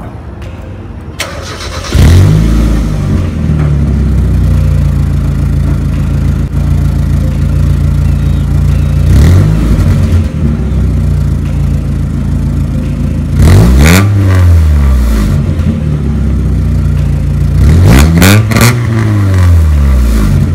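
Mazda Miata four-cylinder engine starting about two seconds in, then idling on its stock exhaust with the muffler still on. It is revved briefly once, then twice more with longer, higher revs that rise and fall back to idle.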